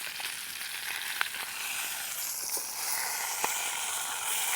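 Steak sizzling in a pan over a campfire, a steady hiss with a few sharp pops, the steak nearly done.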